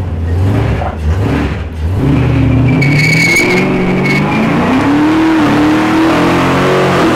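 Truck engine revving hard in a burnout with the tyres spinning, and a brief tyre squeal about three seconds in. The engine pitch climbs, drops and climbs again as the transmission shifts into second gear.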